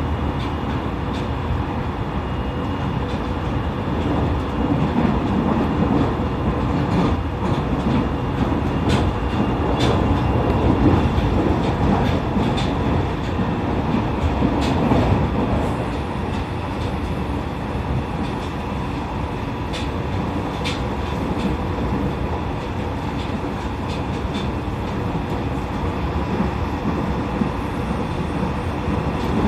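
Running noise of an E501 series electric commuter train heard from inside the car: a steady rumble of wheels on rail with scattered clicks from rail joints, a little louder for a stretch in the middle.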